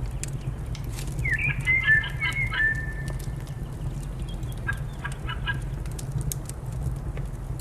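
A bird calls twice over a crackling fireplace: first a run of gliding and chattering notes, then a shorter burst of quick repeated notes about five seconds in. A steady low rumble and scattered sharp crackles from the fire run underneath.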